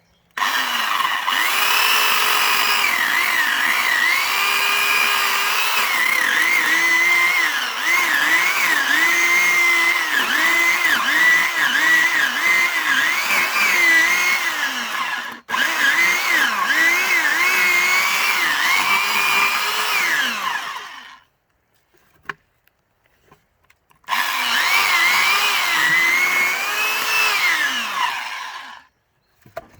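1700 W electric saw cutting pine log for firewood, its motor pitch dipping again and again as the blade bites into the wood. It stops for a moment about halfway through, cuts off again about two-thirds of the way through, and runs once more near the end.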